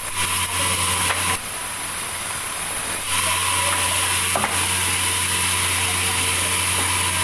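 Sawmill saw cutting a large meranti log: a steady machine hum with a high hiss. It comes on loud twice, briefly near the start and then for about four seconds from about three seconds in, over a quieter running background.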